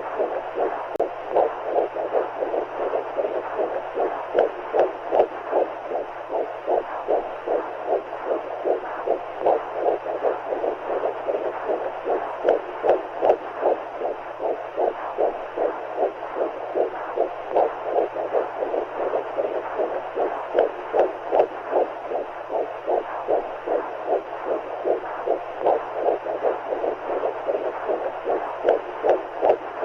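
Womb sound for calming a baby: a steady train of whooshing heartbeat pulses, a few a second, over a continuous hiss and a low hum.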